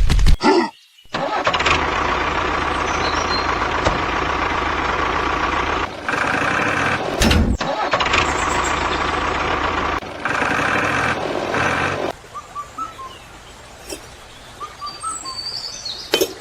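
A vehicle engine running steadily, cut into stretches with short breaks about six, seven and a half, and ten seconds in. From about twelve seconds in it gives way to quieter outdoor sound with a few bird chirps.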